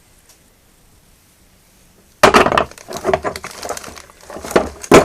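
Quiet at first, then from about two seconds in a loud run of clattering knocks and clinks of hard objects being handled.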